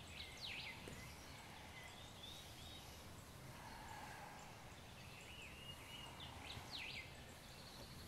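Faint birds calling over a steady low hiss: scattered short chirps and trills, with a pair of quick downward-sweeping calls about half a second in and again near seven seconds.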